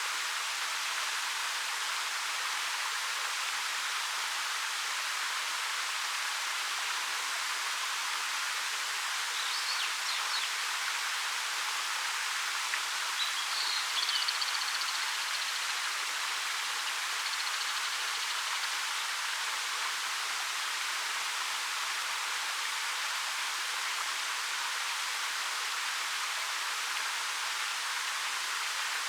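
Steady, even rush of a 13-metre waterfall pouring over rock. A bird chirps faintly a few times about ten and fourteen seconds in.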